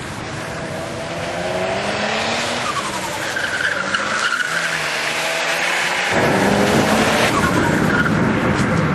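Engine of a turbocharged 1999 Mercury Cougar under hard acceleration. The pitch climbs, drops back about three seconds in, then climbs again, and the sound gets louder and rougher about six seconds in.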